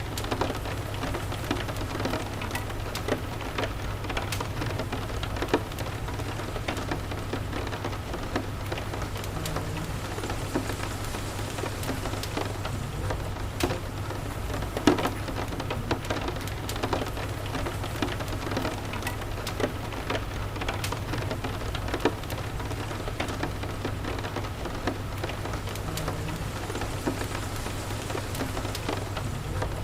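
Steady rain mixed with a crackling wood fire: an even hiss of rainfall with frequent sharp pops and ticks scattered through it, over a steady low rumble.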